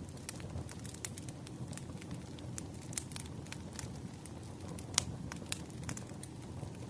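Campfire crackling: a low steady rumble of burning with frequent irregular sharp pops and snaps, the loudest pop about five seconds in.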